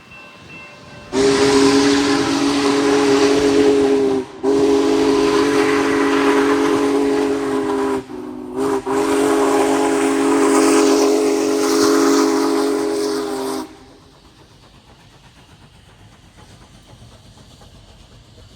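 Union Pacific 4014 Big Boy's raised-letter steam whistle sounding the grade-crossing signal: two long blasts, a short one and a final long blast, a chord of several steady notes over hissing steam. After it stops, only the train's much quieter running is left.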